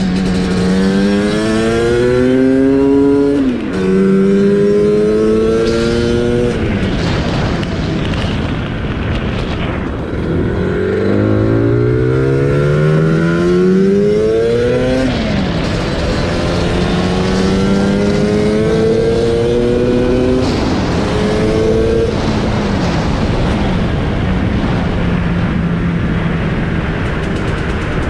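Targa Twin 275cc twin-cylinder two-stroke Lambretta engine with an expansion chamber exhaust, accelerating hard through the gears. The revs climb steadily and drop back at each gear change, several times over, with steady noise underneath.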